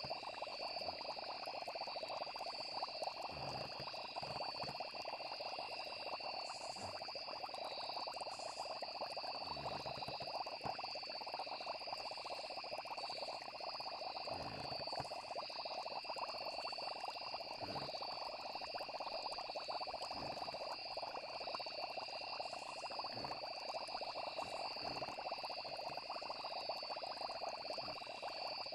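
A night chorus of frogs and crickets trilling steadily, over a dense crackling hiss with a few soft low thuds scattered through it.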